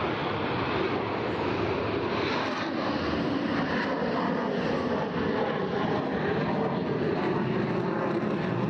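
Fixed-wing aircraft engine noise, a steady, even rush with no breaks.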